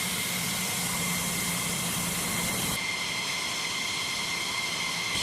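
Jet aircraft engine running steadily, a constant rushing hiss with high whining tones. About three seconds in, the highest hiss and a low hum drop out while the whine goes on.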